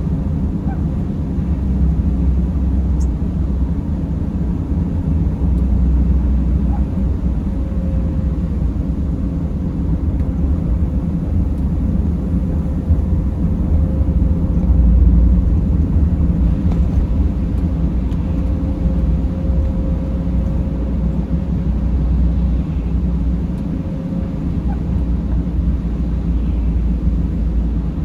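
Mercedes Sprinter van driving: a steady low road-and-engine rumble, with a faint steady hum through the middle stretch.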